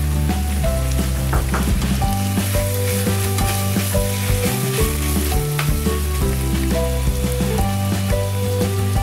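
Strips of sausage and ham sizzling as they fry in a pot, stirred with a plastic spatula. Background music with a stepping bass line and a melody plays over the sizzle.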